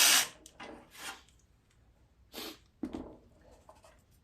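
A loud, even noise cuts off right at the start. Then come a few light clicks, knocks and scrapes of tools and metal parts being handled, as the bolt holding a riding mower engine's oil tube and dipstick is taken out.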